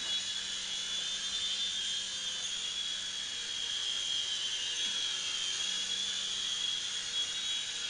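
Syma S100 mini RC helicopter in flight: its small electric motor and rotors give a steady high-pitched whine that wavers slightly in pitch.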